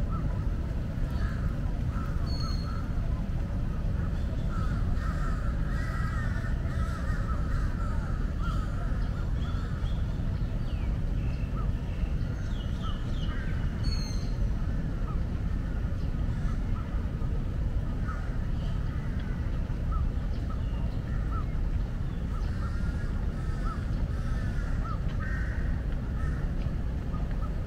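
Birds calling with many short chirping calls over a steady low rumble.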